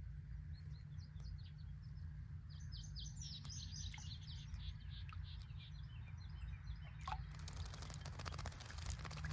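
Small birds chirping in a quick run of high, short notes, followed near the end by a burst of splashing in the birdbath water.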